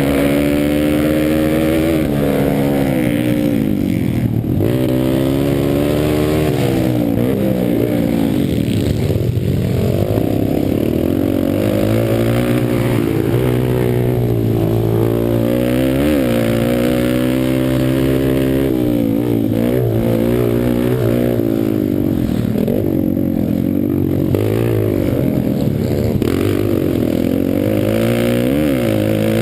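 Pit bike engines racing on a motocross track, revs climbing and dropping over and over with throttle changes and gear shifts.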